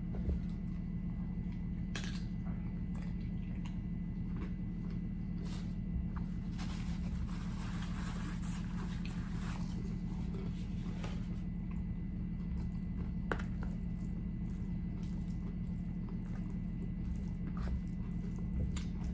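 Close-miked chewing of a tortilla chip loaded with burrito-bowl food: scattered crunches and wet mouth sounds, over a steady low hum.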